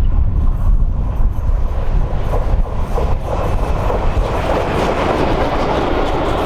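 Steam locomotive approaching along the line, its running and wheel noise building from about two seconds in, over heavy wind rumble on the microphone.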